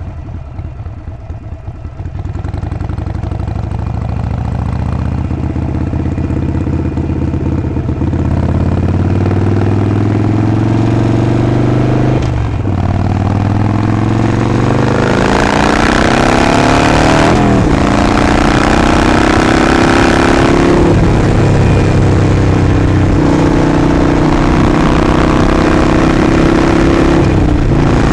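Harley-Davidson Sportster 48's air-cooled 1200 cc V-twin pulling away from low revs and accelerating through the gears. The pitch rises in each gear and drops at the shifts about twelve and seventeen seconds in. It then runs steadily at cruising speed.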